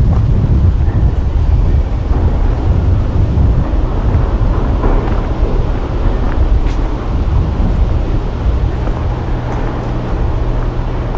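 Wind buffeting an action camera's microphone, a loud, dense low rumble.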